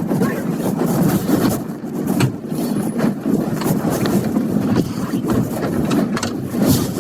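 Footsteps crunching through deep snow, a dense, uneven run of crunches.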